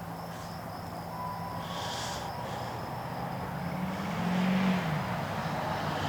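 A motor vehicle engine running with a steady low hum, rising in pitch and getting louder about four seconds in, over a faint steady insect buzz.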